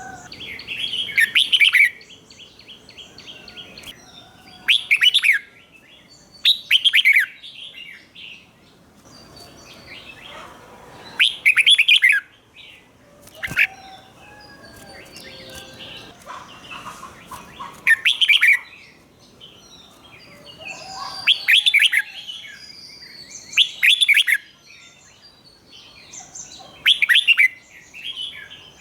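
Red-whiskered bulbul singing: short, loud, fluty song phrases about every three seconds, with softer chirps between them.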